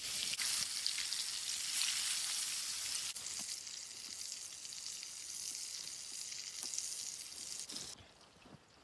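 Fatty meat sizzling as it cooks over a fire: a steady frying hiss with small pops. It cuts off about eight seconds in.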